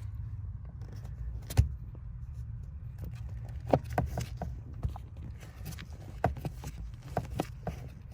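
Scattered small sharp clicks and clinks of hand tools, screws and parts being handled while working under a truck's dashboard, over a steady low rumble; the loudest click comes about a second and a half in.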